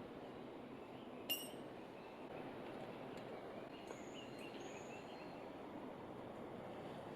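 Faint steady outdoor background hiss with one sharp, ringing clink about a second in, and a few faint high chirps in the middle.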